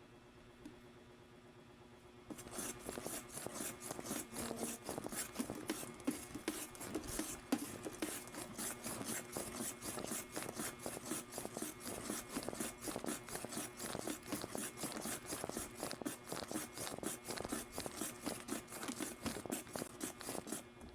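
Rapid, rhythmic scraping and rubbing, several strokes a second, starting about two seconds in.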